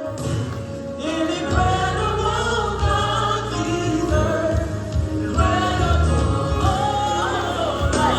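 Gospel choir singing with instrumental accompaniment; a strong bass comes in about a second and a half in.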